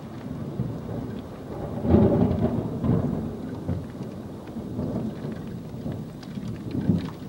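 Thunder rumbling after a nearby lightning strike, over steady heavy rain. The rumble swells about two seconds in, again briefly a second later, then dies down.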